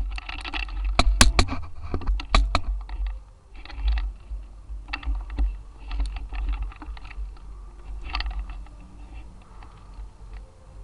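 Irregular sharp clicks and rattles, with quick clusters about a second in and again about two seconds in, then sparser clicks, over a low rumble of movement on the microphone.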